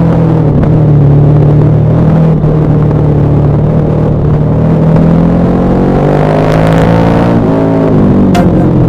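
KTM 1190 Adventure R's LC8 V-twin engine, breathing through a Wings aftermarket exhaust, running steadily while descending; about five seconds in the revs climb for a couple of seconds, then drop back and settle again, with a short tick near the end.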